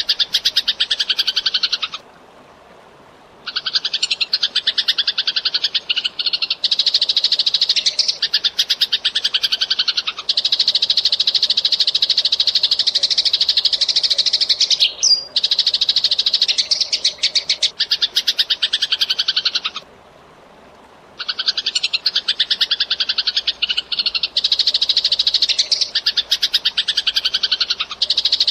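Eurasian tree sparrow chattering in fast, dense runs of chirps, breaking off briefly twice, about 2 seconds in and again about 20 seconds in.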